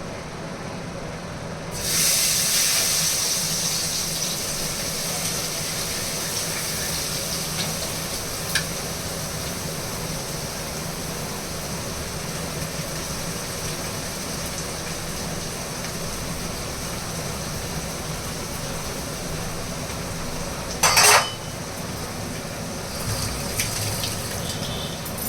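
Sizzling in a pan that starts suddenly about two seconds in and slowly dies down, as of food going into hot oil. A short, loud clatter comes near the end.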